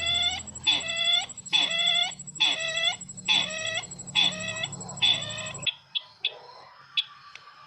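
Sisintar ladang bird call used as a trapping lure, a recording playing through a speaker: about seven harsh, ringing calls, one every second or less, with a steady electronic whine and hum behind them. The playback cuts off about three-quarters of the way in, leaving a few short clipped notes and a click.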